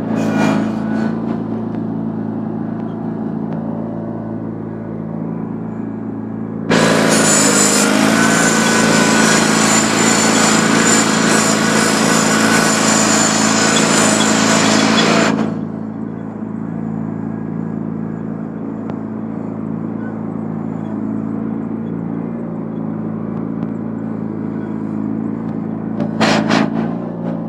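John Deere 318 garden tractor's 18-horsepower engine running steadily. About seven seconds in, a much louder rushing noise joins it for about eight seconds, then stops suddenly.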